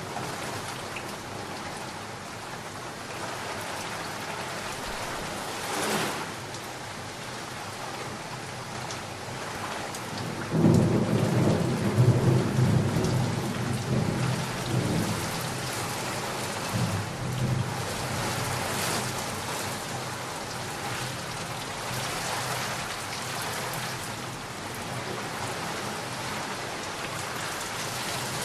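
Steady heavy rain with a rolling thunderclap: a short crack about six seconds in, then a sudden loud low rumble about ten seconds in that fades away over several seconds while the rain keeps on.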